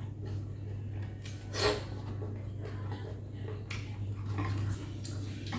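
Someone eating a bowl of noodle soup: utensils clicking against the bowl and mouth sounds of eating, with one louder noisy burst about one and a half seconds in.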